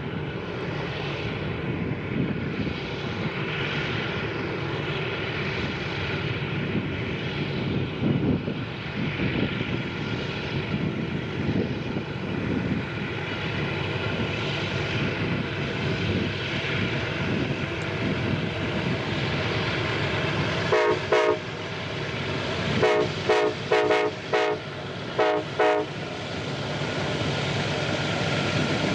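Union Pacific freight train's diesel locomotives running with a steady rumbling drone. About three-quarters of the way through, the locomotive's air horn sounds a quick series of about five short blasts.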